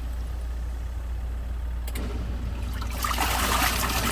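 SUPER DEAL SD2304 mini twin tub washing machine running its wash cycle: a steady motor hum under water churning in the wash tub. The churning drops away for a few seconds, with a click about two seconds in, then picks back up near the end.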